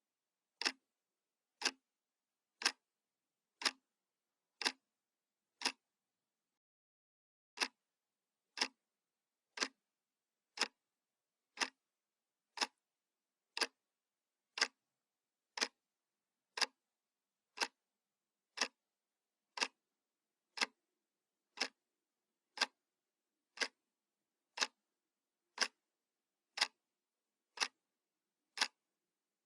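Analog wall clock ticking, one sharp tick each second with dead silence between ticks; one tick is skipped about six seconds in.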